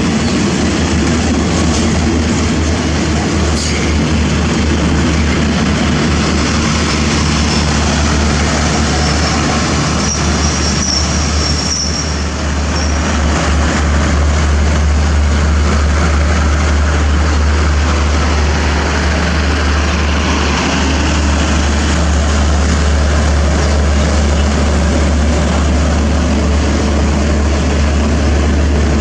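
Train running, a steady heavy rumble, with a brief faint high squeal about ten seconds in.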